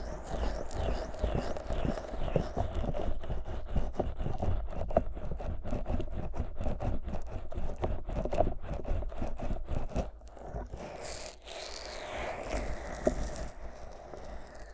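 Fingers rubbing and squeezing thick Vaseline over the silicone ears of a 3Dio binaural microphone, giving dense, sticky, crackling clicks. About ten seconds in, the sound drops to softer, smoother rubbing.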